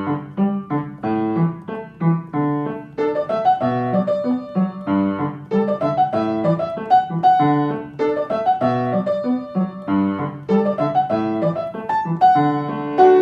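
Instrumental piano music: a melody over chords, with notes struck several times a second.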